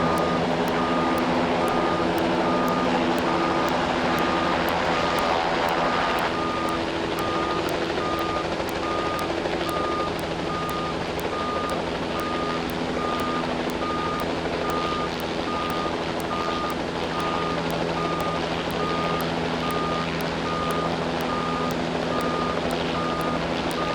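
Fire truck engine running steadily to power the extended aerial ladder, with a warning beeper sounding about once a second throughout.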